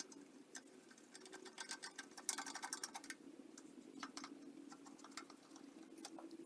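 Faint, scattered light clicks and ticks from hand work on small sheet-metal parts, with a dense run of rapid clicking about two seconds in, over a steady low hum.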